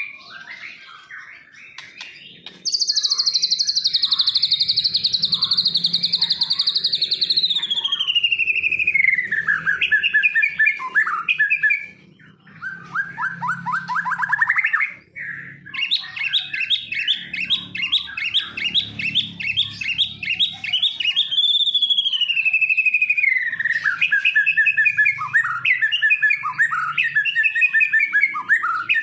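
White-rumped shama (murai batu) singing a long, varied song. It begins with a high, very fast trill that slides down in pitch. Then come phrases of rapid repeated notes and short warbles.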